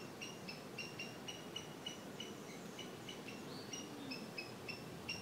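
A small bird calling: a steady run of short, high chirps, about four a second, some notes a little higher than others.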